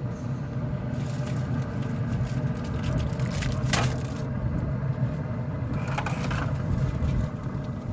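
Foil-wrapped packets being set down on a grill grate, with a sharp knock about four seconds in and a brief crinkle of foil around six seconds, over a steady low mechanical hum.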